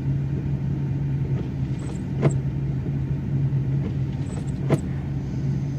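Van engine running with a steady low hum and rumble, with two faint clicks about two and four and a half seconds in.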